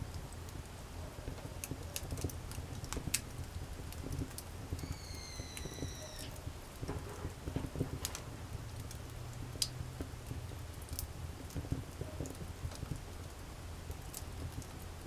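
Wood fire crackling, with irregular sharp pops and snaps of burning wood. About five seconds in, a thin whistling tone sounds for about a second and a half, falling slightly in pitch.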